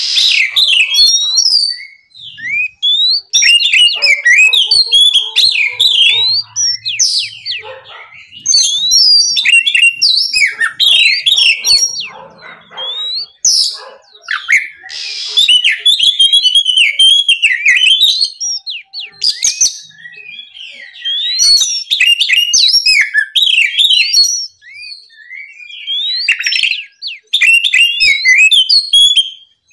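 Oriental magpie-robin singing loudly in long, rapid phrases of varied whistles and chirps, each phrase lasting a few seconds and broken by short pauses.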